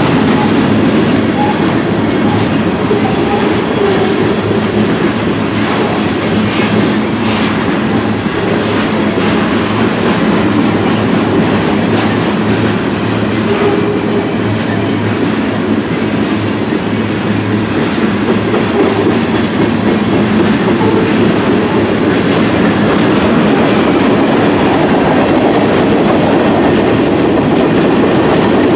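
CSX freight train passing, with the steady noise of its wheels on the rails.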